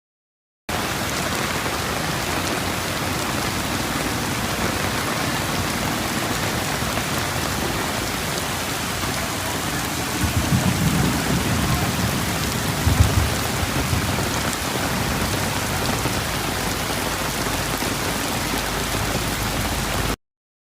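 Heavy rain pouring steadily, with a low rumble swelling a little past halfway and peaking briefly.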